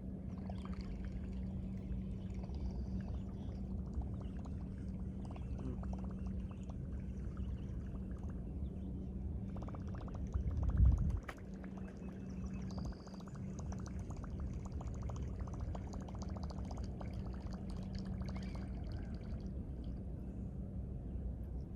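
Running river water with a steady low hum underneath, and one brief low thump about eleven seconds in.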